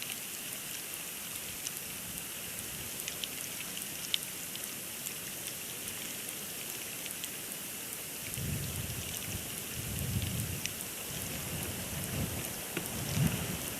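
Steady hiss of a storm on an outdoor nest-cam microphone, with scattered light ticks of falling snow striking it. From about eight seconds in, low gusts of wind buffet the microphone in several surges.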